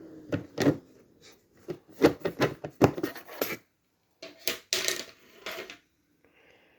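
Exhaust fan's hum falling in pitch and fading as it winds down in the first second, then a run of irregular sharp clicks and knocks as the fan's cover is handled and taken off.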